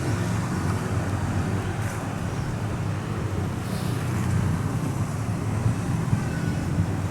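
Diesel train engine running with a steady low hum as the train moves slowly in reverse.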